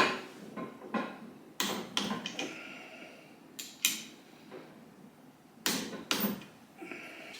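Tools and parts being handled on a workbench: about ten sharp knocks and clacks at irregular intervals, some with a short ring, the loudest right at the start.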